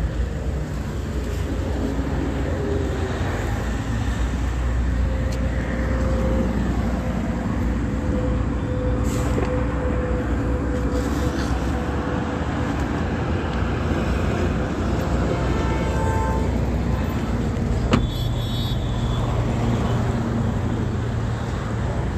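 Steady low rumble of a motor vehicle running, with one sharp click late on.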